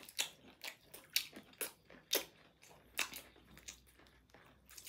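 Close-up eating sounds of someone chewing a mouthful of biryani: a dozen or so soft, irregularly spaced clicks and crunches.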